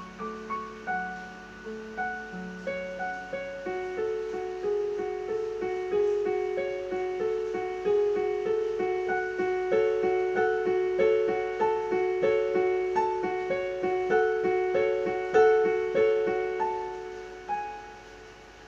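Piano music: a slow melody of single notes over a repeating accompaniment, building a little and then fading out near the end.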